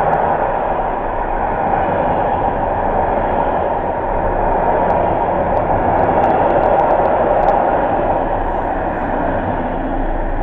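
Container freight train rolling past, a steady rumble of steel wheels on the rails with a few faint clicks midway.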